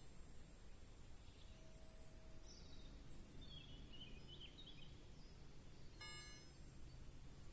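Near silence with a low background rumble, faint bird chirps a few seconds in, and a brief high ping about six seconds in.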